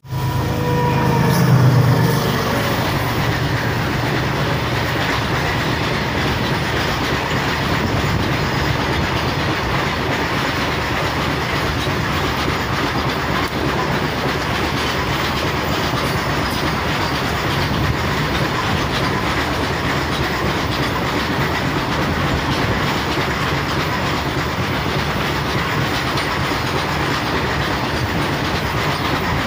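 Diesel freight train passing close by. The locomotive's engine rumbles loudest about two seconds in, then a long line of freight wagons rolls past with a steady rush of wheel and rail noise and clickety-clack.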